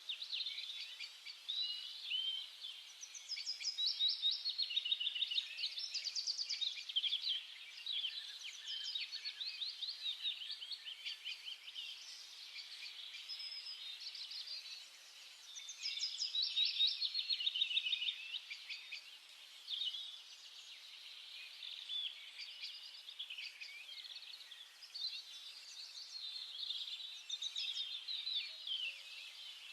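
Several small birds chirping and twittering at once in quick trills, a busy unbroken chorus.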